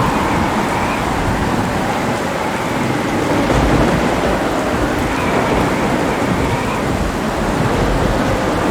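Heavy rain falling steadily, with low rolling thunder rumbling beneath it, swelling a few seconds in.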